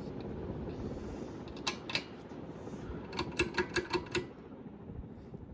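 Litex Signet Deluxe ceiling fan running with a steady whir, with two sharp clicks about a second and a half in and then a quick, even run of about six clicks; the running sound drops a little after the clicks.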